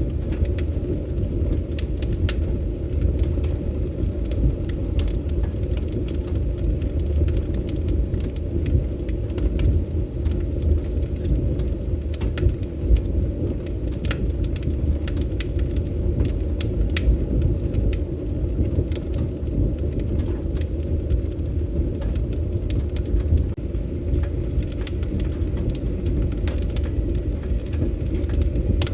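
Wood fire burning in a fireplace, with a steady low rumble and frequent sharp crackles and pops scattered throughout.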